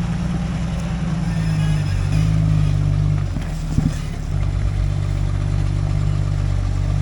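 Off-road 4x4's engine running steadily at low revs while crawling. About halfway through it eases off briefly with a single knock, then picks up again.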